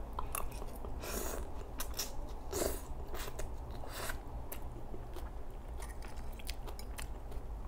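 Close-miked mouth sounds of a woman chewing a mouthful of leafy salmon salad: wet clicks and smacking with a couple of louder crunches about one and two and a half seconds in.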